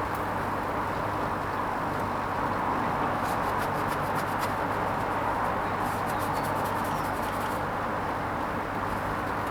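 Hoover Vision HVP16 washing machine running on its Silks 30 programme: a steady motor hum under an even whooshing noise, with spells of faint light ticking a few seconds in and again later.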